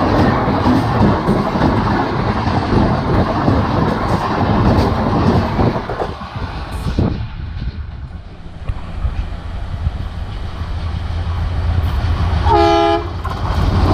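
Express train passing at speed, with a loud rush of wheel and coach noise and rail clatter that drops away about six seconds in. A rumble then builds again, and an Indian Railways locomotive horn sounds one short blast near the end.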